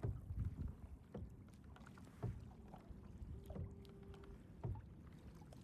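Water sloshing against a kayak at sea, with small irregular splashes and knocks of the paddle and hull.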